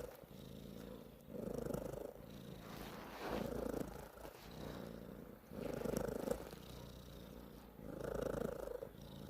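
Domestic cat purring loudly and continuously, swelling louder about every two to two and a half seconds.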